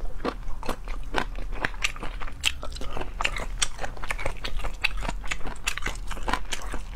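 Close-miked chewing of chicken feet in sauce: irregular, sharp, wet crunching clicks, about three or four a second.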